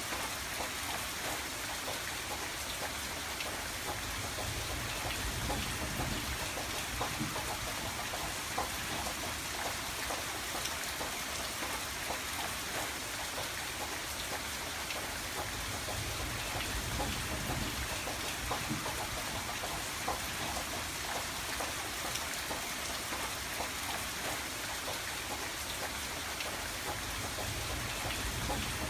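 Steady rain pattering on a window, with many small drop ticks over a constant hiss and a soft low rumble that swells and fades.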